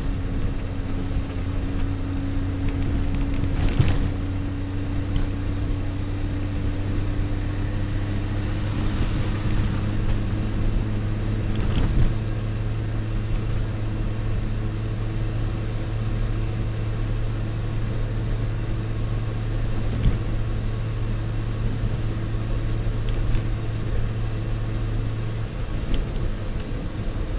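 A 1966 DKW-Vemag Belcar's three-cylinder two-stroke engine running under way, heard from inside the cabin. Its note holds steady and slowly climbs, with a few short knocks along the way, and the low note drops near the end.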